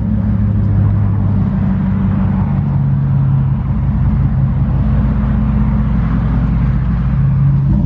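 2011 Chevy Tahoe's 5.3 V8 running at idle through a muffler-deleted exhaust, a loud, deep, steady drone, still warming up shortly after a cold start. Its pitch steps up slightly about two seconds in.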